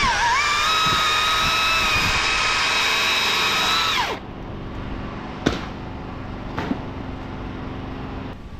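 Chainsaw running at full throttle for about four seconds, its pitch dipping briefly as the chain bites into the wood, then winding down as the throttle is released. A quieter running sound follows, with a couple of sharp knocks.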